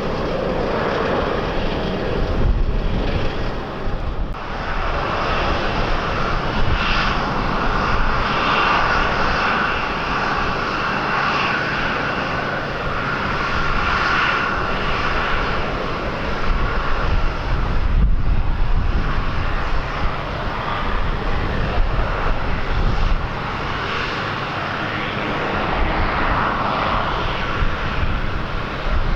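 Aircraft engines running with a steady roar and a faint whine above it, while wind buffets the microphone with a low, uneven rumble.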